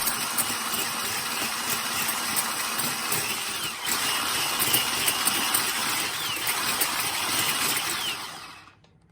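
Electric mixer running steadily as it whips chilled egg whites, with a brief dip about four seconds in, then switched off near the end.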